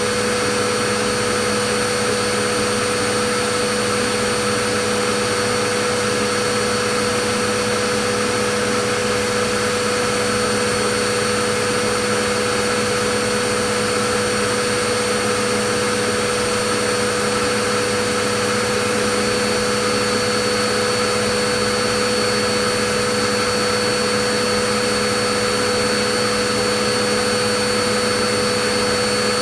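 Vacuum cleaner running steadily, a constant motor hum and rushing air with a steady whine and no change in pitch or level.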